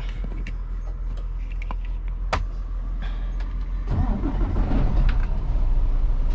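Semi truck's diesel engine running, with scattered light clicks; it grows louder and heavier about four seconds in, as the truck moves off.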